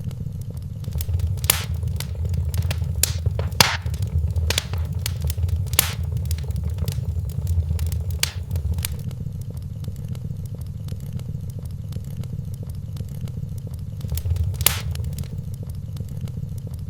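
Wood fire burning in a fireplace, a steady low rumble with sharp crackles and pops. Most come in the first half, with one loud pop near the end.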